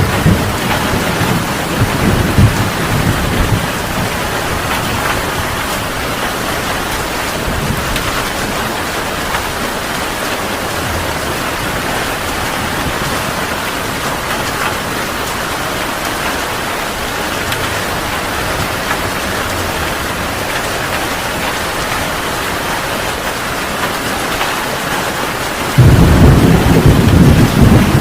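Heavy rain pouring steadily, with thunder rumbling in the first few seconds. A loud roll of thunder breaks in suddenly near the end.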